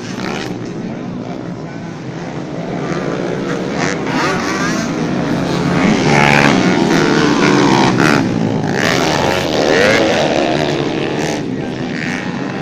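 Several motocross bikes racing, their engines revving up and down with overlapping shifting pitches, growing louder toward the middle as they pass close by and easing off near the end.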